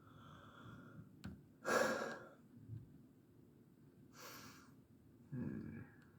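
A person breathing close to the microphone: a few short breaths or sighs, the loudest about two seconds in.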